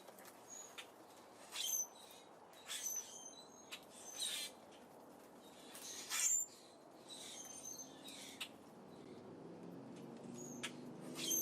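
Small birds at a seed feeder giving short, high chirps every second or so, mixed with a few sharp clicks. A lower steady tone comes in during the last couple of seconds.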